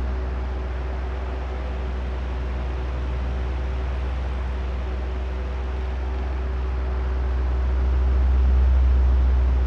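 Oscillating electric fan running: a steady drone of moving air over a low motor hum. It swells and fades slowly as the fan head turns back and forth, quieter through the middle and loudest near the end.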